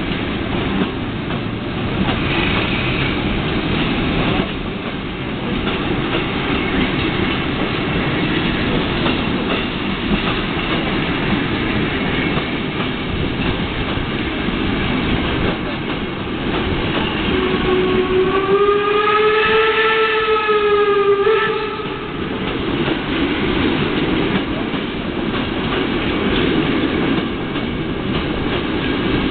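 Passenger coaches of a steam-hauled train rolling slowly past, their wheels clattering over the rails in a steady rumble. About two thirds of the way through, a train whistle blows for about four seconds, its pitch rising and then sagging slightly before it cuts off.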